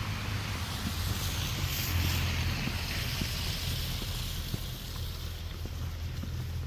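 Snowstorm wind buffeting the microphone as a steady low rumble, with a broad hiss that swells about two seconds in and fades away.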